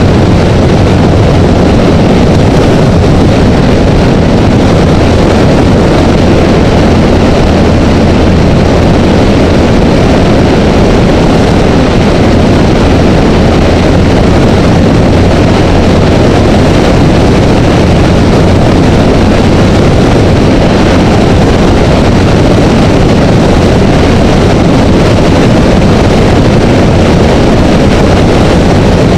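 Honda Rebel motorcycle cruising steadily at freeway speed: a loud, unchanging drone of engine and wind rushing over the camera.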